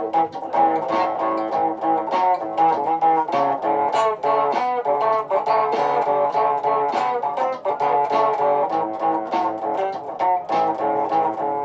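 Guitar playing quick picked notes in a repeating phrase.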